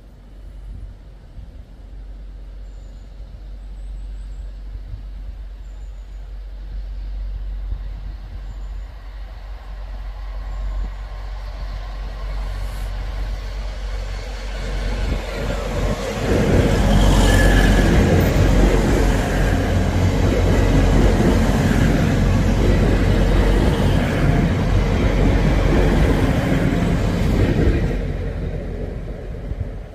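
Passenger train approaching and passing close by at speed. It grows from a distant hum to a loud rush of wheels on rail, holds for about ten seconds, then drops away sharply near the end as it clears.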